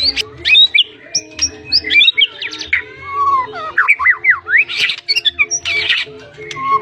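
White-rumped shama (murai batu, blorok white-patched form) singing a dense, varied song of quick whistled notes and rising slides, with harsh rasping notes about two-thirds of the way through.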